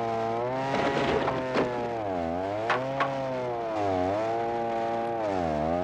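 A small motor running steadily, its pitch dipping briefly and recovering about every second and a half as if it were being loaded, with a few sharp knocks in the first half.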